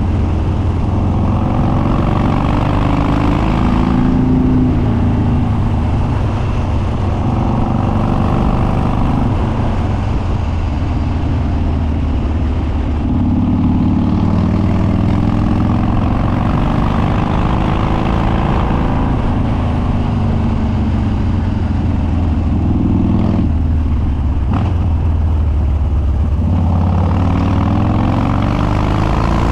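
2013 Harley-Davidson Dyna Street Bob's Twin Cam V-twin running loud through unbaffled dual exhaust while riding, its pitch repeatedly rising and falling as the rider accelerates, backs off and changes gear.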